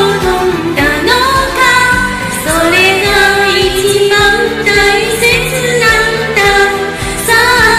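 Japanese pop ballad: a sung melody with long held, wavering notes over steady instrumental backing.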